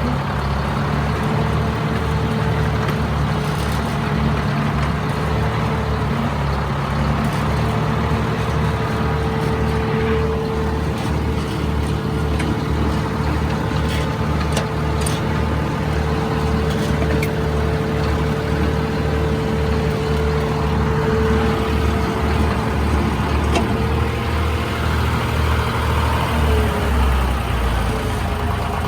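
An engine running steadily with a low, even pulsing and a steady whine above it; the engine note shifts near the end.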